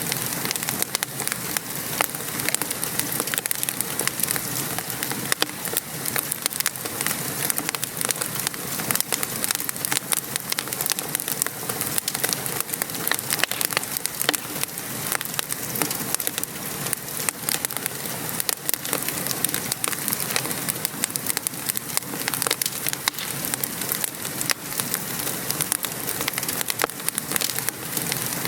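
Wood fire crackling, with frequent sharp pops, over the steady hiss of rain falling.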